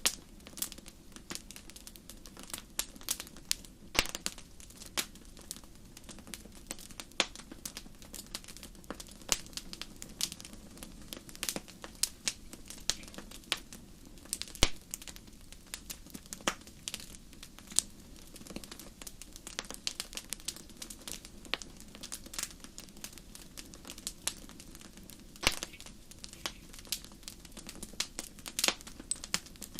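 Fire crackling in a fireplace: irregular sharp pops and snaps, several a second, over a faint steady low rumble.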